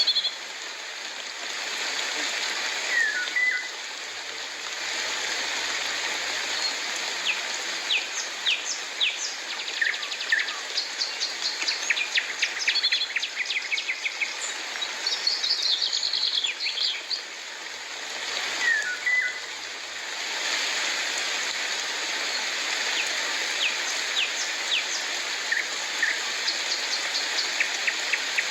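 Several birds chirping and calling in short high notes and quick rattling series, over a steady hiss of falling rain.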